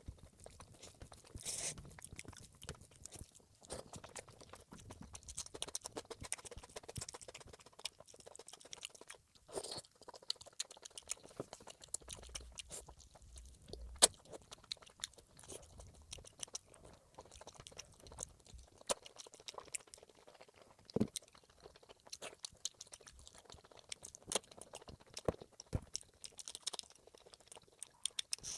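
A person chewing and crunching food with the mouth, with many irregular sharp crackles and wet clicks.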